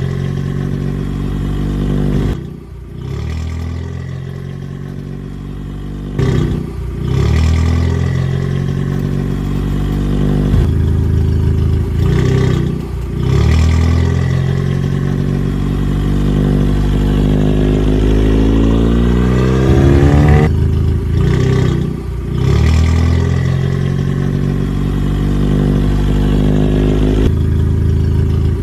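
Vehicle engine running and revving, its pitch shifting with short breaks every few seconds, and one long slow rise in pitch that cuts off about twenty seconds in.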